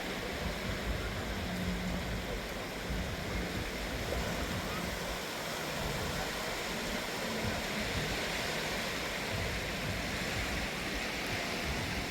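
Sea surf washing steadily onto a sandy beach, a continuous rush of breaking waves.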